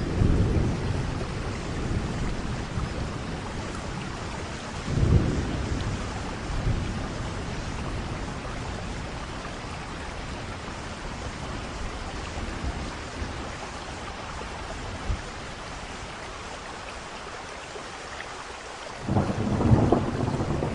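Thunderstorm: steady rain with rolling thunder. Low rumbles come near the start and about five seconds in, then the rain carries on more quietly, and a louder peal of thunder rolls in near the end.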